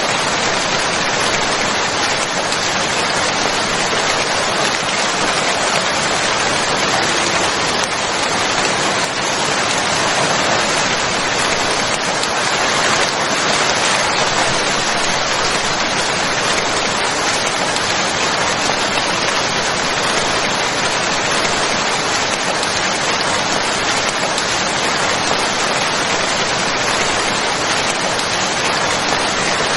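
Steady, heavy rain falling, an even hiss of drops on a surface, unchanging in level.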